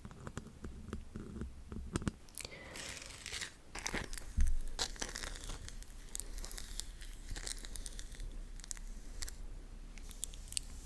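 Close-miked crinkling and tearing, with scattered sharp clicks and one loud thump about four seconds in.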